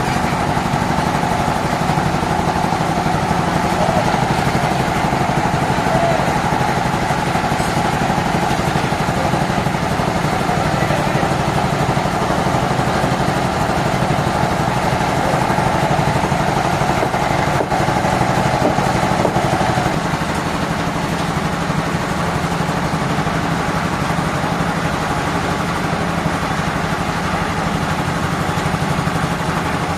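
Sawmill machinery running steadily with a constant engine-like hum; a higher whine over it stops about two-thirds of the way through.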